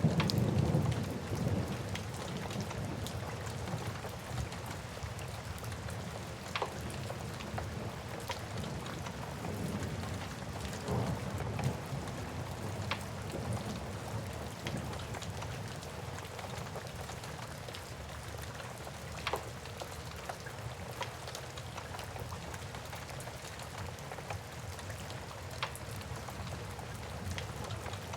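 Steady rain, with a low thunder rumble dying away in the first couple of seconds, and occasional sharp pops from a crackling wood fire.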